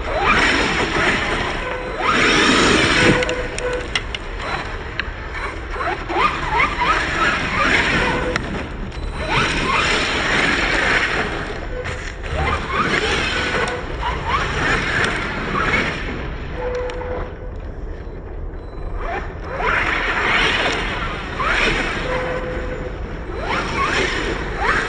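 Radio-controlled truck driving in repeated bursts through wet slush, its tyres splashing and churning as the motor speeds up and backs off.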